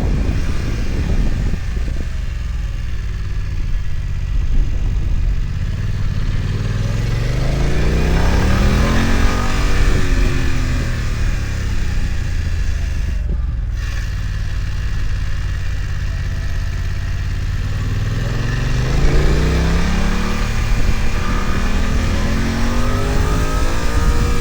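BMW F900XR motorcycle's parallel-twin engine on a hill climb, pulling hard twice: the pitch rises for a few seconds about a third of the way in, drops back, and rises again about three quarters of the way through.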